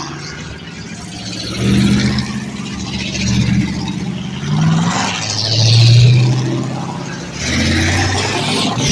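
Race car engines running at speed around the track, their notes rising and falling in loud swells as the cars come and go.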